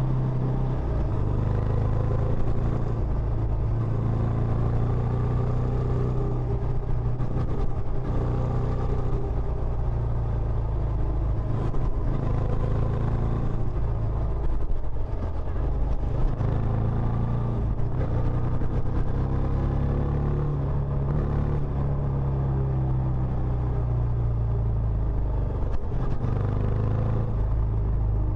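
Benelli Imperiale 400's single-cylinder engine running through its stock exhaust, a steady low rumble whose note rises and eases a little now and then.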